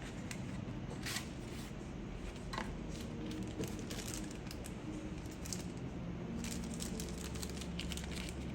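Hands handling the keyboard kit's packaging and small accessories: scattered light crinkles, rustles and soft clicks over a steady low room hum.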